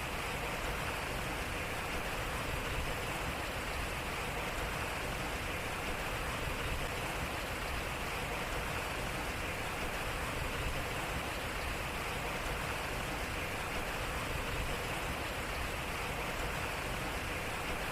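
Water running and splashing off a turning water wheel: a steady, even rush of flowing water.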